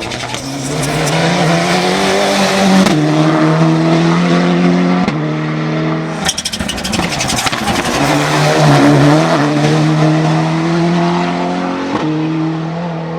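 Mitsubishi Lancer Evo VI hill climb prototype's turbocharged four-cylinder engine at full throttle, pulling through the gears with a gear change every two to three seconds. A burst of sharp pops comes about six seconds in.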